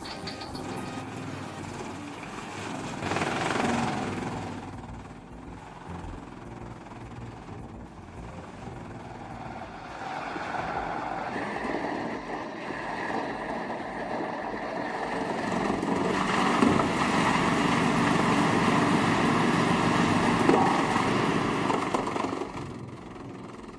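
Heavy machinery running and working, with a brief surge a few seconds in and a steady high whine that sets in about halfway. It grows louder and stays loud for several seconds before falling off near the end.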